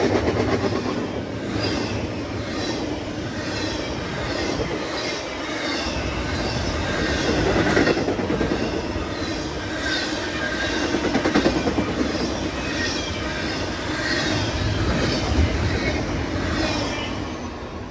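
A train running past, its wheels clicking over rail joints in a steady rhythm with some wheel squeal. The sound falls away just before the end as the train clears.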